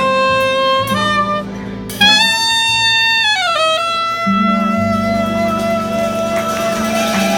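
Soprano saxophone playing a jazz ballad melody over band accompaniment. About two seconds in it lands on a loud high note, then slides down to a long held note.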